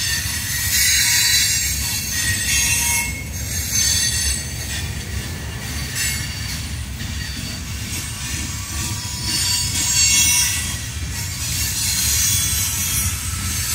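Loaded ballast hopper cars of a freight train rolling past on steel rails: a steady low rumble of wheels and trucks, with a high-pitched wheel squeal that swells and fades.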